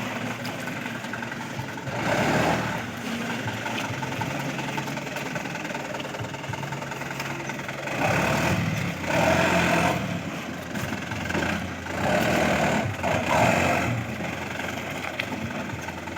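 A fully loaded truck's engine running steadily at low speed, growing louder in several surges about 2, 8 to 10 and 12 to 14 seconds in as the truck works over a badly broken road.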